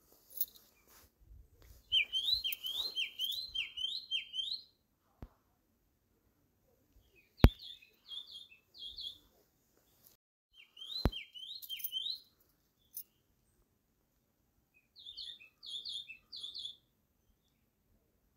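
A bird calling in phrases of four to six quick notes that sweep up and then drop, given four times with pauses between. Three sharp clicks cut in, the loudest about seven and a half seconds in.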